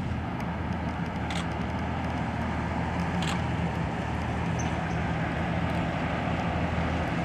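A car engine running steadily, with a couple of brief clicks.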